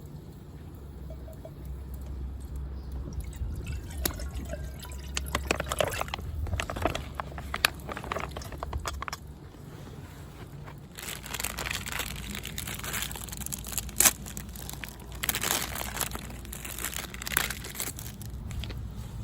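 Water being poured or splashed in two spells, with a few sharp clicks among them.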